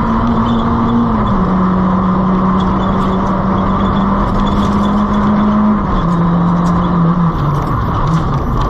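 Nissan Micra K11 1.3 rally car's four-cylinder engine running hard at high revs, over steady road and tyre noise. Its note drops in steps, about a second in and again about six seconds in, then falls further and wavers near the end. Scattered sharp clicks run through it.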